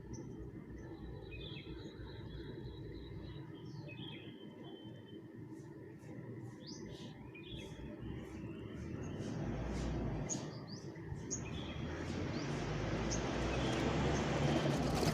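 Birds chirping and calling in short, scattered high notes over a low steady rumble. From about eight seconds in, a rushing noise builds and grows louder.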